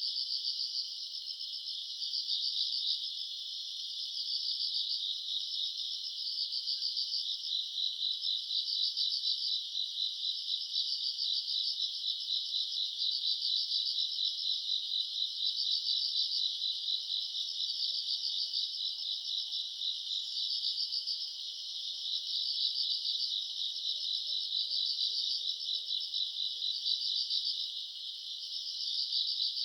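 Summer-night chorus of grass insects: many overlapping high, fast trills that swell and ease in pulses about once a second without a break.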